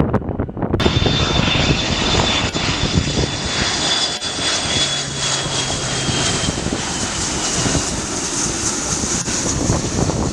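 Jet airliner passing close by, its engines running loud with a high whine that slowly drops in pitch. The noise comes in abruptly about a second in, over wind buffeting the microphone.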